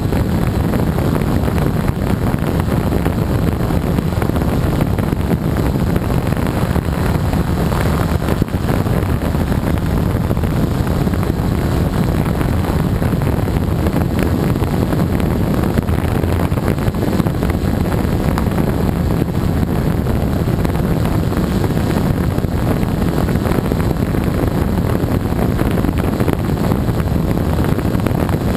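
Gaui 330X quadcopter's electric motors and propellers running steadily in flight, recorded by the camera on board, with wind buffeting the microphone.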